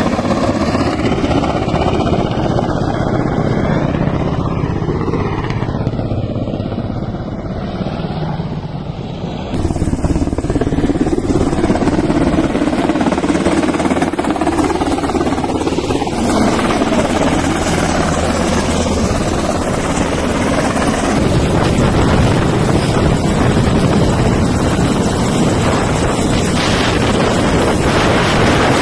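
Military helicopter's rotor and engine running loud and steady. The sound changes abruptly about a third of the way through.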